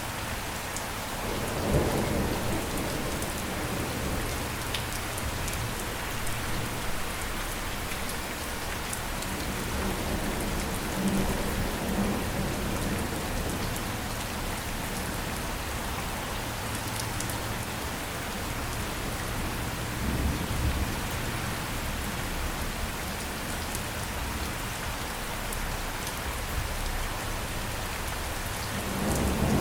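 Steady rain falling, with low rolls of thunder rumbling in several times: about two seconds in, around the middle, and again near the end, where a louder roll builds.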